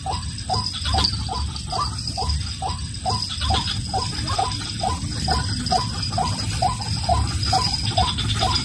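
White-breasted waterhen calling: a long, even run of repeated short 'kruak' notes, about three a second.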